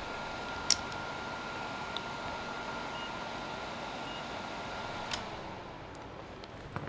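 A small electric fan on a soldering bench running with a steady whir and a thin high whine, switched off with a click about five seconds in. Two short faint beeps sound in between.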